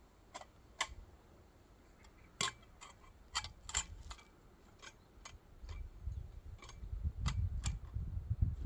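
Wood fire crackling: about ten sharp, irregular pops and snaps, with a low rumbling noise coming up in the second half.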